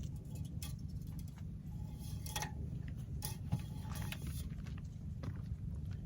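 Scattered light clicks and taps of hands working in a minivan's engine bay during an oil check, with one sharper knock about three and a half seconds in, over a steady low rumble.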